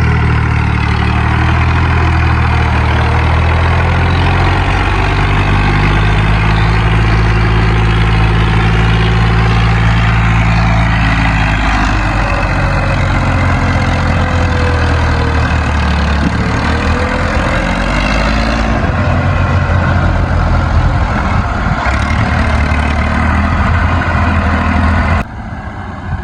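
Massey Ferguson tractor engine running steadily while hauling a loaded sugarcane trolley. Its note shifts about halfway through, and the sound drops off abruptly near the end.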